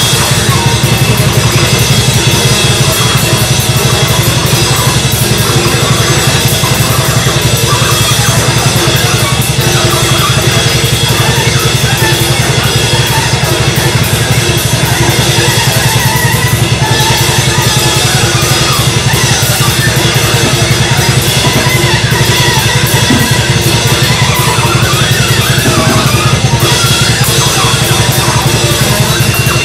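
Loud, dense free-improvised noise music: a drum kit played hard and fast with bass drum and crashing cymbals, and sustained pitched lines from the other instruments over it. It comes in suddenly at full level right at the start.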